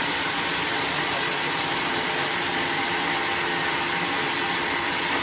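Sawmill machinery running steadily: a constant mechanical noise with a faint hum, unchanging throughout.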